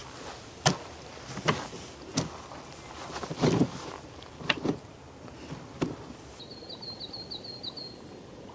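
A handful of sharp, irregular knocks and clacks over a soft hiss, then a short, rapid bird trill near the end.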